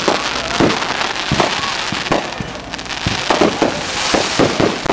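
Fireworks going off: a rapid, irregular string of bangs and pops over a continuous crackling hiss from the burning effects.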